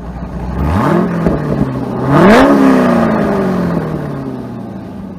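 A car engine idling, then revved twice: a short blip about a second in, then a higher, louder rev a little past two seconds, its pitch sinking slowly back toward idle.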